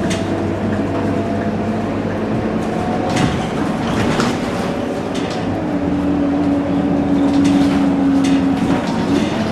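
Scania K230UB city bus's engine and drivetrain running while the bus is under way, with a few short knocks and rattles. Halfway through, a steady whine comes in and holds, then drops away near the end.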